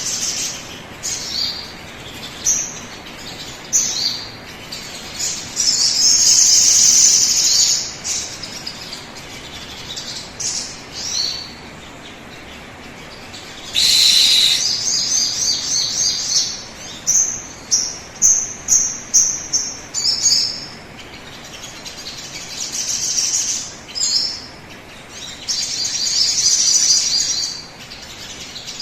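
Sogon bird song in loud, high-pitched phrases: trilling bursts lasting a second or two, alternating with a quick run of short separate notes about two-thirds of the way through. It is a lure recording, played to prompt birds of the same kind to start singing.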